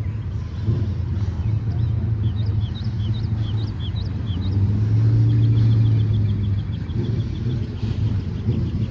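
A car engine's low, steady rumble that swells about five seconds in, with a row of high, short chirps partway through.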